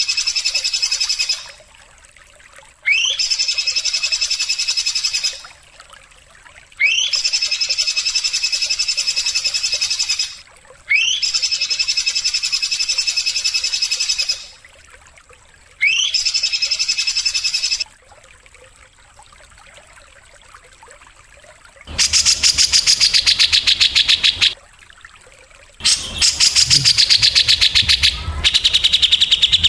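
Recorded bird calls played as a songbird-training (masteran) track. Five repeated buzzy trill phrases, each opening with a quick rising sweep and lasting a couple of seconds, come about every four seconds. After a pause, a faster, harsher pulsed trill sounds twice and falls slightly in pitch.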